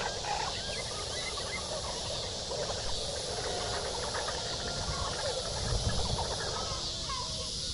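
Forest ambience: a steady high hiss with many short bird chirps and calls scattered through it. Near the end a bird repeats a short arched call several times in quick succession.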